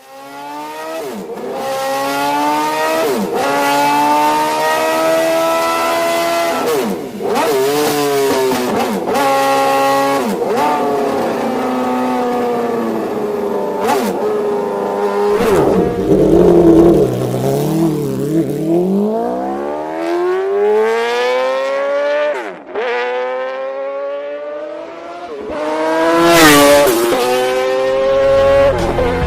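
High-revving motorcycle engine accelerating hard, its pitch climbing and dropping sharply again and again as it shifts up through the gears. Around the middle it drops low and slows, then winds up in a long rise and is loudest near the end.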